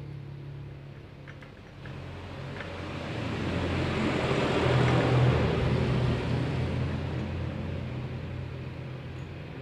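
An engine running steadily, with a rushing noise that swells to its loudest about halfway through and then fades.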